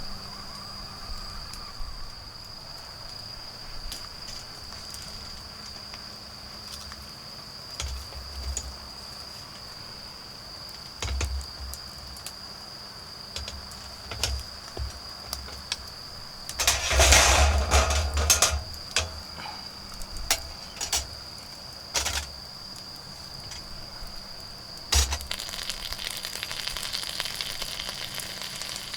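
Autumn insects singing a steady high trill over the crackle of a wood bonfire, with sharp pops and snaps. Midway there is a loud rustling burst lasting about a second and a half, and near the end the fire hisses and sizzles more densely.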